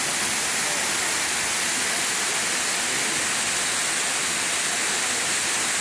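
Steady, unbroken rushing noise of running water.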